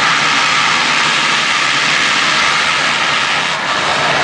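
Motocross dirt bikes racing, their engines running hard in a loud, steady din.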